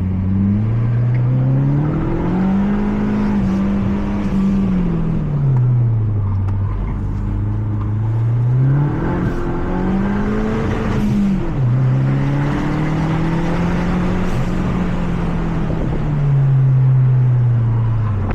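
Mazda 3 MPS's turbocharged 2.3-litre four-cylinder engine under hard acceleration, its revs climbing and falling several times. About two-thirds through, the revs drop sharply and then climb again.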